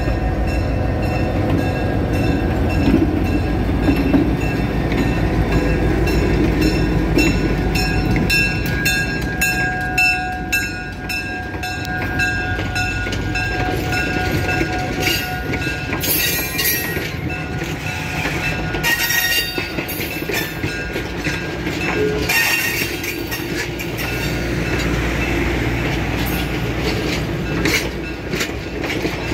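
A diesel locomotive's engine running under load as it pulls away and passes close by, then passenger coaches rolling past. Their wheels click over the rail joints, with brief high-pitched wheel squeals several times in the middle.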